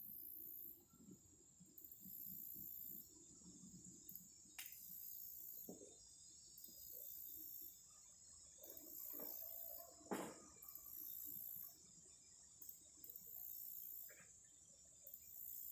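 Faint insects calling: a steady high-pitched buzz under very high trills of about a second each, repeating every second or two. A couple of brief faint clicks.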